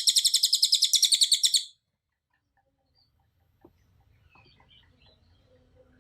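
Cililin songbird giving a loud, rapid trill of evenly repeated high notes, about ten a second, that stops about one and a half seconds in, followed by a few faint soft chirps.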